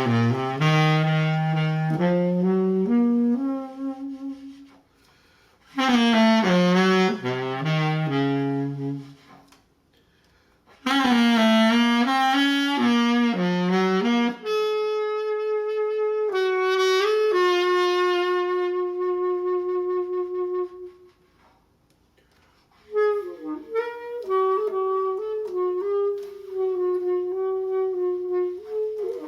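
Solo saxophone playing a slow, meditative melody in phrases broken by short silent pauses. Low notes come first, then longer held notes higher up in the second half.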